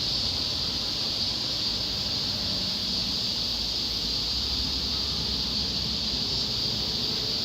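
Cicadas droning in a steady, continuous high-pitched chorus over a low background rumble.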